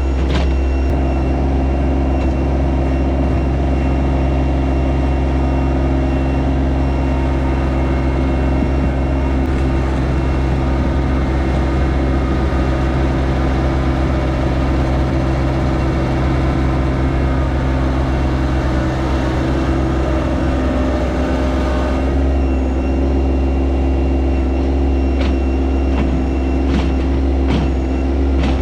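Yanmar SA324 compact tractor's diesel engine running steadily at an unchanging speed, with a few light clicks near the start and again near the end.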